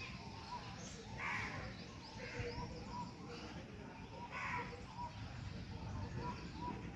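Birds calling: harsh, rasping calls repeated every second or two over a steady run of short, higher chirping notes.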